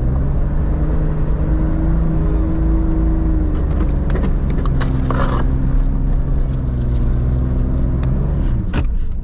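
Off-road vehicle's engine running at low, fairly steady revs with small rises and falls, and a short rush of noise about five seconds in.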